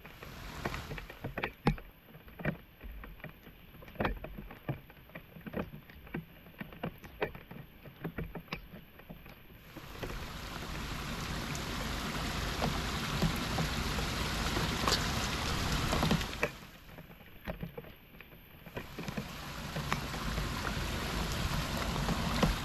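Floodwater splashing and sloshing in irregular strokes while a clogged street drain is cleared. About ten seconds in it gives way to a louder, steady rush of water, which drops away briefly and then returns.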